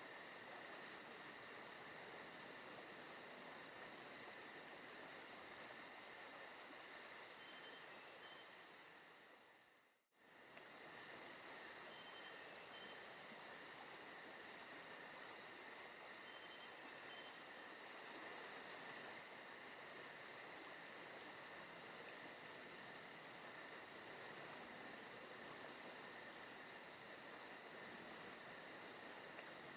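Forest ambience of crickets and other insects chirping steadily, with a fast high trill on top and a few faint short chirps. About ten seconds in it fades almost to silence for a moment and comes back.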